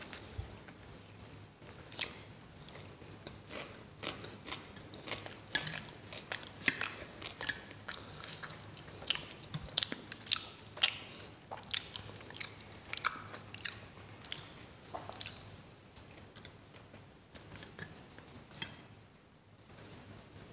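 Close-miked chewing of mouthfuls of radish-stuffed paratha (mooli paratha) with raw onion: wet mouth sounds broken by many irregular sharp clicks and crunches, which grow sparser in the last few seconds.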